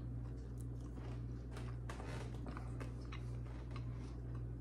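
A person chewing a mouthful of whole wheat bread: faint, irregular crunching and mouth clicks over a steady low hum.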